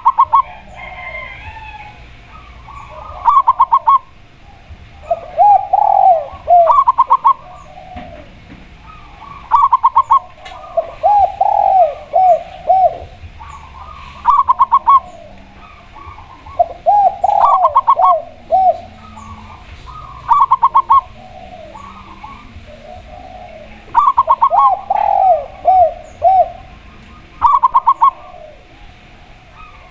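A spotted dove and a zebra dove cooing in turn. Phrases come every couple of seconds: a quick high run of short coo notes alternates with a lower group of three or four arched coos.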